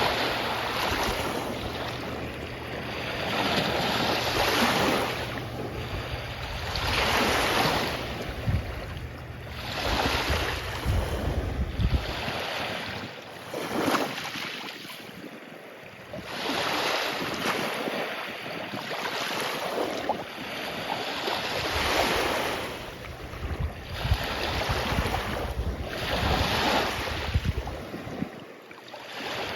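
Waves breaking and washing up on a beach, each surge swelling and fading every few seconds, with wind buffeting the microphone at times.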